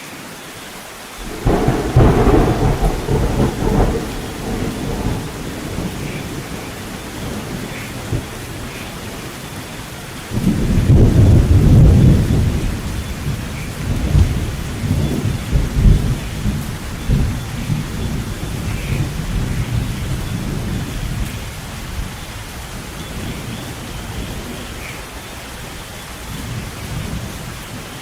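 Thunderstorm: steady rain with two rolls of thunder. The first breaks suddenly about a second and a half in and rumbles for a few seconds; the second, starting about ten seconds in, is a longer, deep rumble that rolls on and slowly fades over about ten seconds.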